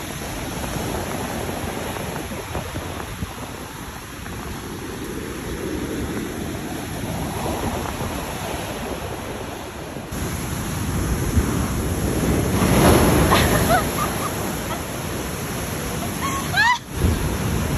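Stormy sea surf breaking and washing, with wind buffeting the microphone; the surf grows louder after about ten seconds.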